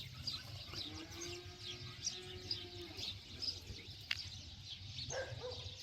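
Small birds chirping over and over in quick high notes. About a second in, a long even-pitched call holds for roughly two seconds.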